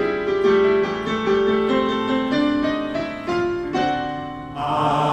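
Rehearsal piano playing a short interlude, a melodic line of single notes stepping over held lower notes. Voices come in on a held chord near the end.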